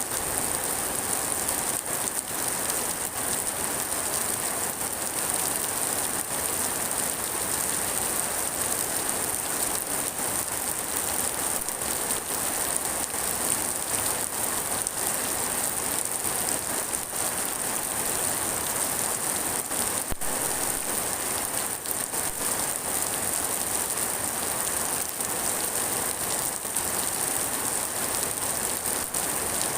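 Steady rain falling and pattering on surfaces, a continuous even hiss with many small drop impacts.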